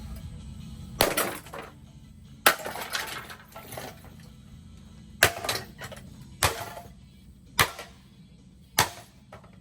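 Old four-blade ceiling fan being wrecked: six loud crashing impacts a second or so apart, each followed by a brief clatter of rattling parts. A low hum fades out after the first crash.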